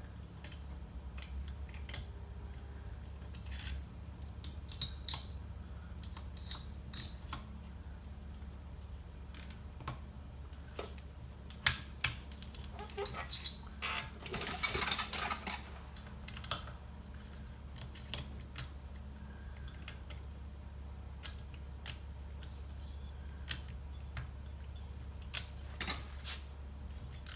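Metal hand tools clicking and clinking as chainsaw cylinder mounting bolts are tightened with a ratchet and a click-type inch-pound torque wrench. Scattered sharp clicks, with a longer rattling stretch about halfway through.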